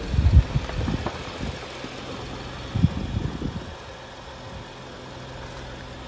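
Ford Police Interceptor Utility engine idling with a steady low hum. A few low thumps sound over it near the start and again about three seconds in.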